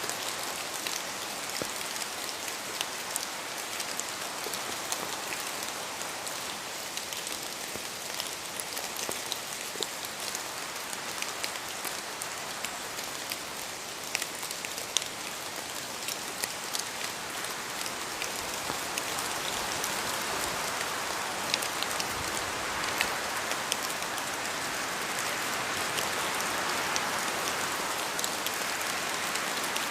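Steady rain falling in a forest, with many separate drops ticking as they fall from the trees. The rain noise swells louder and fuller in the second half.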